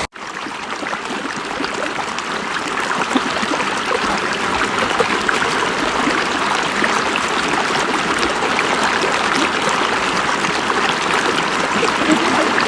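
River water flowing steadily in an even, continuous wash of sound. It cuts in after a brief gap at the start and swells a little over the first couple of seconds.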